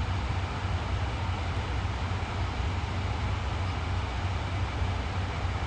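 Diesel train engines running with a steady low rumble and an even hiss, unchanging throughout.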